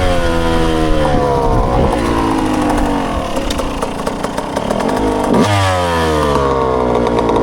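Dirt bike engines running. The pitch sinks gradually twice, and between the two the revs jump sharply about five and a half seconds in.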